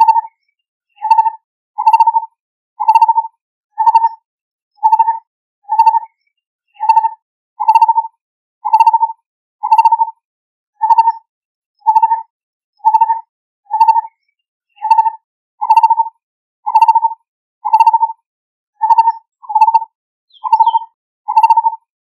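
Lineated barbet calling: a steady run of short, mellow hooting notes, about one a second, with clean silence between them. This is its territorial and contact call.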